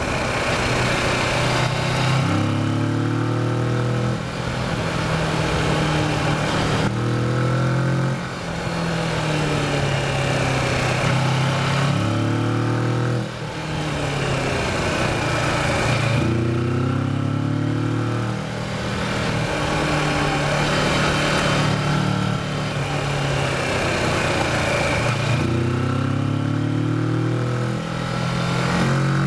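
Kawasaki Versys motorcycle engine under hard riding, pitch climbing under throttle and dropping back about five times as the rider accelerates out of corners and rolls off into them. Steady wind noise runs underneath.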